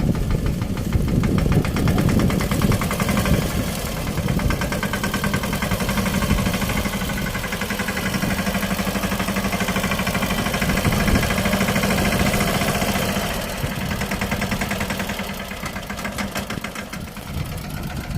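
Small diesel engine of a Swaraj 717 mini tractor chugging steadily under load while climbing, with a fast, even beat that eases slightly a couple of times near the end.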